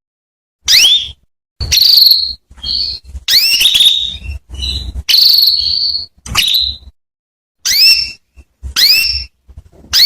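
Female canary calling: about ten short, high calls, many rising in pitch and some held on one note, with brief silences between.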